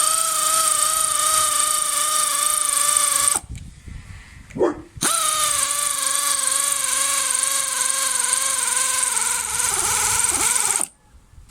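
Cordless power driver running as it tightens the handlebar clamp bolts on a dirt bike, with a steady, slightly wavering whine. It makes two runs: one of about three and a half seconds, a short pause, then one of about six seconds that cuts off near the end.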